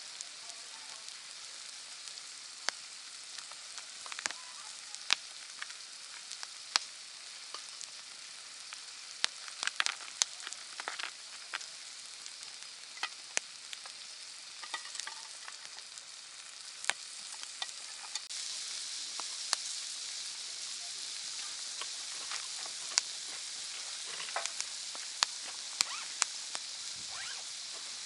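Wood campfire crackling: irregular sharp pops and snaps over a steady hiss. The hiss gets a little louder about two-thirds of the way through.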